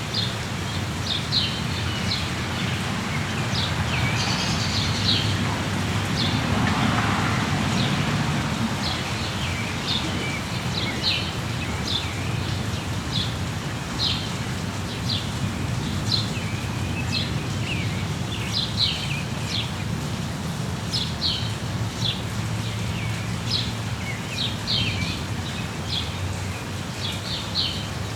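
Small songbirds chirping in the rain: short, high chirps repeat about once or twice a second over a steady hiss of falling rain. Several seconds in, a fuller call briefly joins them.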